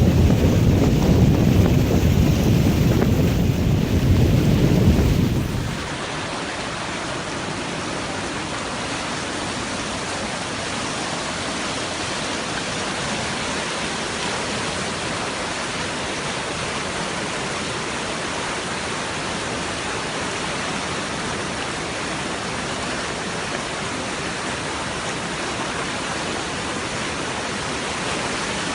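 Wind buffeting the microphone with a heavy low rumble for about five seconds. It is cut off abruptly by a steady, even rushing hiss of water, typical of heavy rain or a flowing flood torrent, that holds unchanged to the end.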